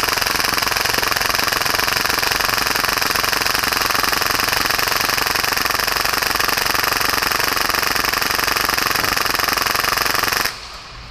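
A full-auto Tokyo Marui Hi-Capa airsoft pistol, tank-fed and built for about 30 rounds per second, firing one long unbroken burst. About ten and a half seconds in, it stops on its own without the trigger being let off.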